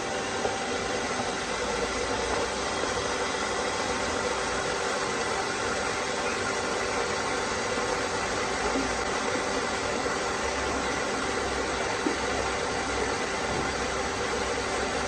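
Steady, unbroken machine noise with a faint hum, like a motor or power tool running continuously.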